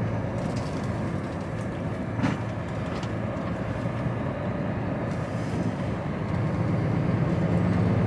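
HGV lorry's diesel engine and road noise heard from inside the cab while driving, steady low hum growing louder over the last two seconds, with a sharp knock about two seconds in and a few light clicks.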